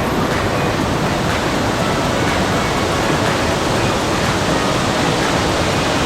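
Waterfall pouring at close range: a loud, steady rush of falling water with no rhythm or pitch, cut off suddenly near the end.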